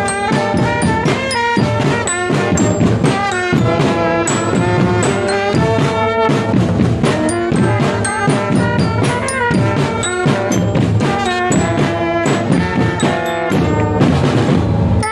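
A marching drum band playing a tune, brass horns carrying the melody over steady drumming.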